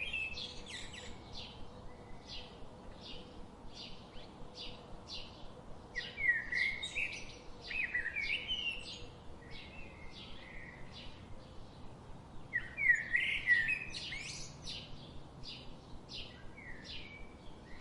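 Birds singing: a steady series of short, high chirps, about two a second, with louder warbling phrases about six and again about twelve seconds in.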